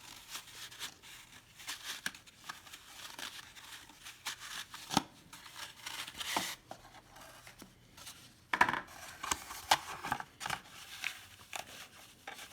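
Trading cards being worked out of a tightly packed card box by hand: rustling, scraping and crinkling of card stock and packaging, with a few sharper snaps, the loudest about five seconds in and again near eight and a half seconds.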